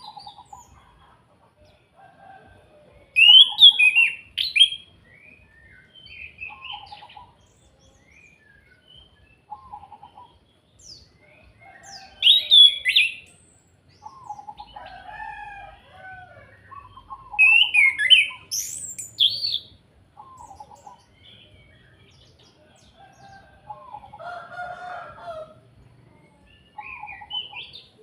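Chestnut-capped thrush (anis kembang) singing: loud bursts of quick, high, sweeping phrases every few seconds, with quieter short, lower notes repeated in between.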